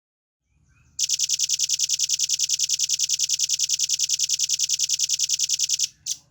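Velvet-fronted nuthatch singing a fast, evenly spaced trill of high notes, about ten a second, for about five seconds, then one last note.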